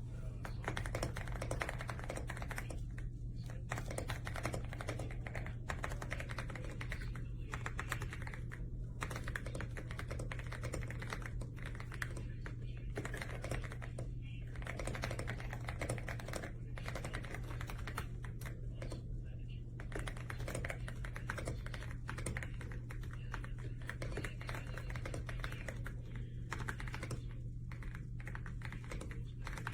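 Typing on an EPOMAKER x Aula F75 gasket-mount mechanical keyboard: a fast, continuous run of key clacks with a few brief pauses, over a steady low hum.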